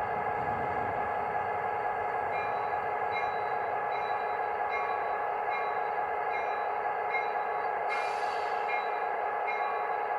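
Recorded EMD GP30 diesel locomotive sound played by a Zimo sound decoder through a G-scale model's small speaker: a steady engine drone. From about two seconds in, a short ping repeats a little faster than once a second, and a brief air hiss comes about eight seconds in.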